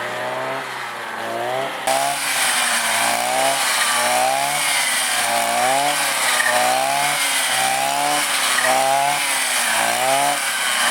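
Small engine revving up and down over and over, about once a second, at a steady overall loudness.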